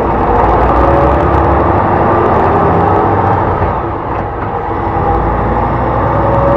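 Hyundai Blue City low-floor hybrid bus driving on its G240 engine and electric motor: a steady low rumble with a faint whine that slides in pitch and rises near the end. The level dips briefly about four seconds in.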